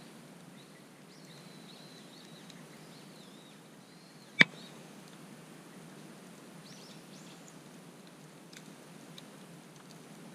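Burning firewood in a campfire giving one loud, sharp pop about four seconds in, with a couple of faint crackles later, over a soft steady hiss and small birds singing.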